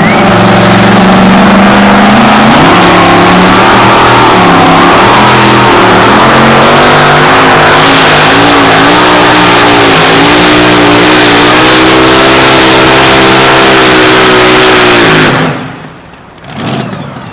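A two-wheel-drive pulling truck's engine runs loud at full throttle while dragging the pulling sled, its pitch wavering and stepping up and down under load. The engine cuts off abruptly about fifteen seconds in, at the end of the pull.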